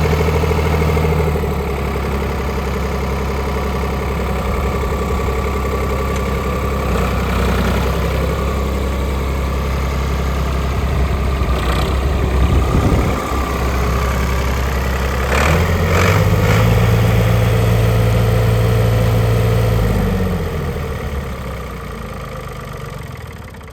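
Ford 4610 tractor's three-cylinder engine idling, then speeding up about two thirds of the way through and holding a higher speed for a few seconds. It then slows and winds down near the end, with a few sharp clicks around the speed-up.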